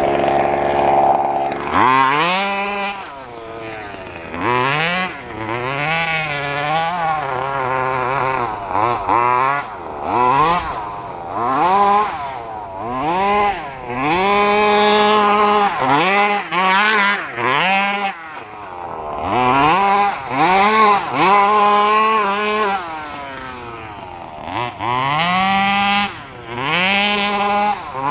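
1/5-scale FG RC truck's 32cc two-stroke gas engine being throttled on and off repeatedly. Its pitch rises sharply, holds at high revs, then drops back, a dozen or so times, with short dips to a lower idle between bursts.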